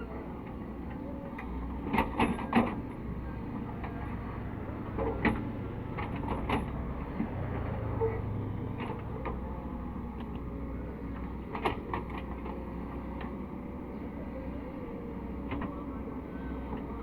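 Caterpillar 307E2 mini excavator's diesel engine running steadily, with several sharp metallic knocks from the working machine, a quick cluster of them about two seconds in and a few more scattered later.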